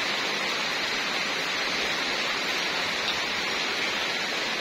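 Rain falling steadily, a constant even hiss with no let-up.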